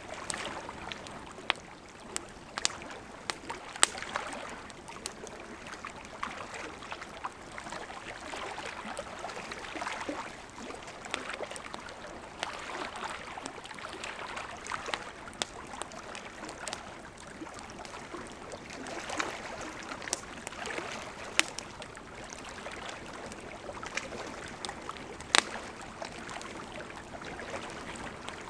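Campfire of burning wood crackling: a steady hiss with frequent small crackles and, now and then, a sharper pop.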